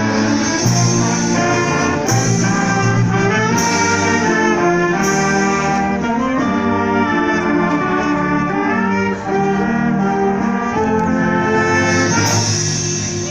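Symphonic concert band playing a loud, full passage led by trumpets and trombones, with cymbal crashes four times in the first five seconds and again near the end.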